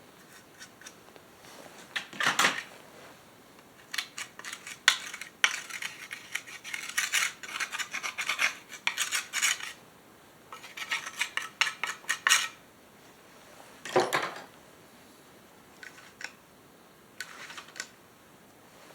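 Irregular metallic clinks and rattles of hand tools and small metal parts being handled while taking apart an old chainsaw, in bursts with short pauses between.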